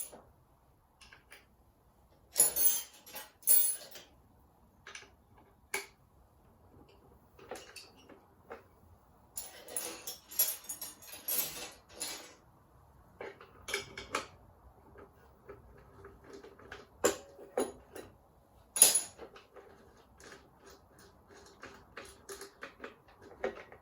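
Metal hand tools clinking and clicking against engine fittings while bolts are being undone, in irregular clusters of sharp metallic clicks, the loudest clink about three quarters of the way through.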